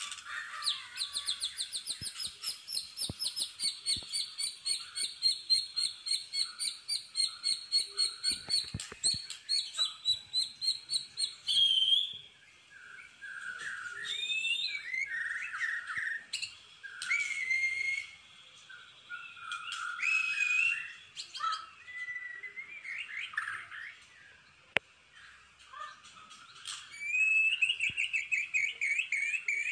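Caged songbird singing a long, fast run of repeated piercing notes, the rapid-fire 'tembakan' burst, for about twelve seconds. It then breaks into varied chirps, whistled phrases and warbling before a second fast trill near the end.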